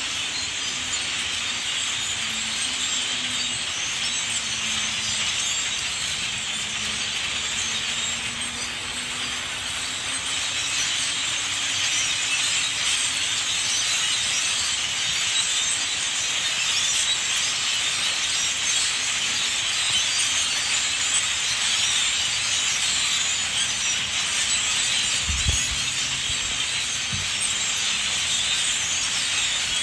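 A huge winter flock of common grackles calling all at once: a dense, steady din of squeaky, creaking chatter that grows a little louder partway through. Two low thumps come near the end.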